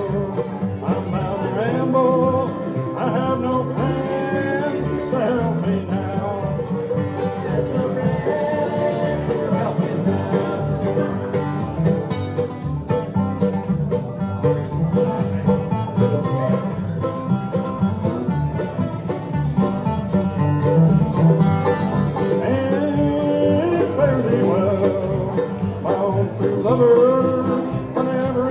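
A live bluegrass band playing a song, with banjo and guitar picking and a voice singing at times.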